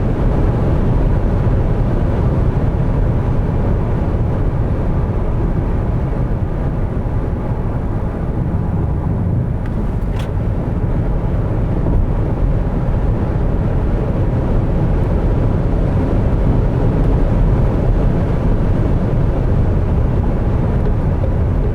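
Steady low rumble of tyre and wind noise inside the cabin of a Smart #5 BRABUS electric car travelling at high Autobahn speed.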